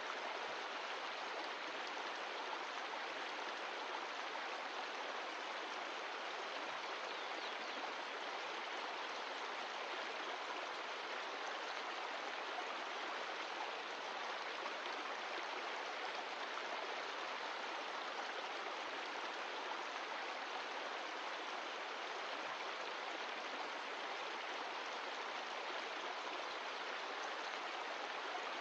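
Mountain stream of glacial meltwater rushing and gurgling over rocks, a steady, even water noise.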